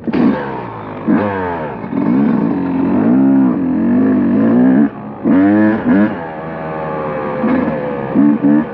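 Motocross dirt bike engine revving up through the gears: the pitch climbs and falls back again and again as the rider shifts, with a short drop off the throttle about five seconds in and quick throttle blips near the end.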